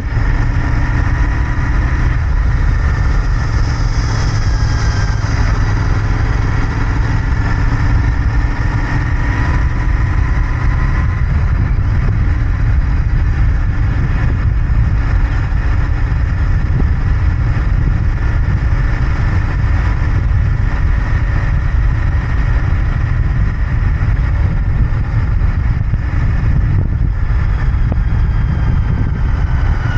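Royal Enfield Interceptor 650's parallel-twin engine and exhaust running at a fairly steady speed, heard from on the moving motorcycle. Near the end a high tone slides down in pitch.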